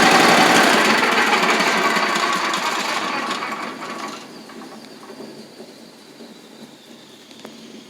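Wood chipper's small gasoline engine running with a mechanical clatter, then fading and dying away about four seconds in as it is shut down, leaving a faint whine that falls in pitch as it spins down.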